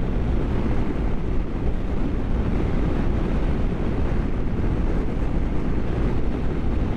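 Motorcycle on the move at road speed: a steady rush of wind over the rider's microphone, mixed with the rumble of the BMW GS's engine and road noise.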